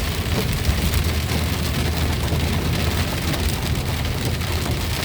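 Heavy rain hitting the car's roof and windshield over a steady low rumble of engine and tyres on the wet road, heard from inside the cabin.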